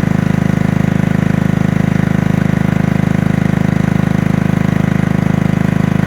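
Generator engine running steadily at constant speed, an even engine note with no change in pitch.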